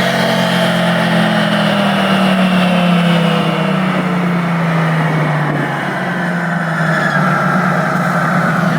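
A truck engine running hard at steady high revs, its pitch slowly easing down over the last few seconds.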